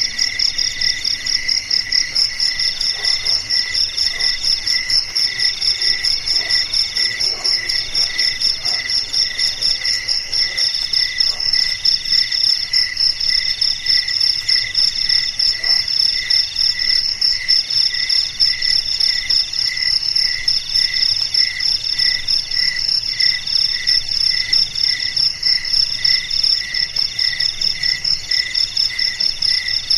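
Crickets chirping steadily, several overlapping calls: a high, fast pulsing trill, a mid-pitched call in roughly one-second stretches with short gaps, and a lower chirp repeating a little under twice a second.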